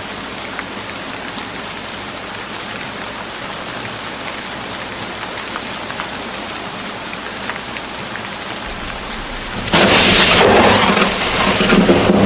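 Steady rain falling, then about ten seconds in a sudden loud crack of thunder that rolls on into a rumble under the rain.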